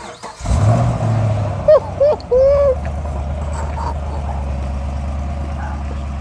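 Car engine starting: it catches about half a second in, revs briefly, then settles into a steady idle. Three short, loud pitch-bending calls sound over it about two seconds in.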